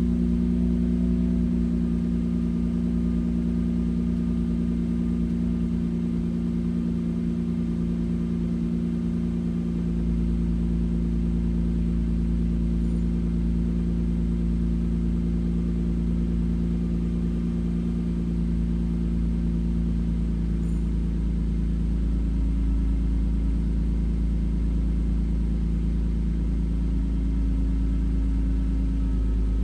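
1996 Lexus SC300's 3.0-litre inline-six running at a steady idle after a cold start.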